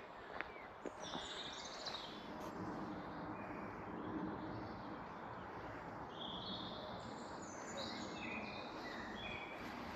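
Wild birds singing, scattered short high chirps and warbled phrases, over a faint steady background hiss.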